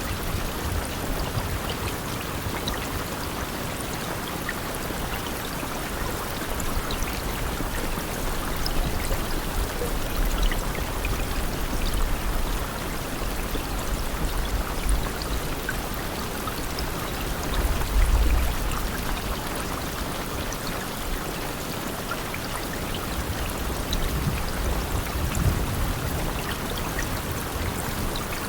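Steady rain falling, an even hiss with scattered drop ticks. A few brief low rumbles come through, the strongest about eighteen seconds in.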